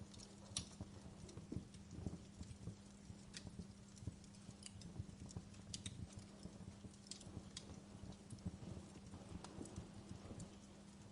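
Wood fire in a fireplace crackling: faint, irregular pops and snaps over a low rumble of burning.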